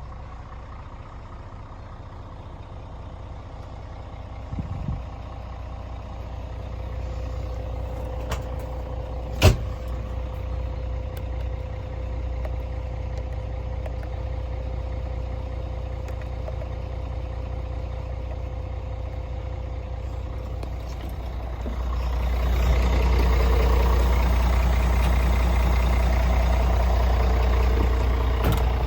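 Scania R450 truck's 13-litre six-cylinder diesel idling steadily, with one sharp click about a third of the way in. The running gets clearly louder about three-quarters of the way through and stays so.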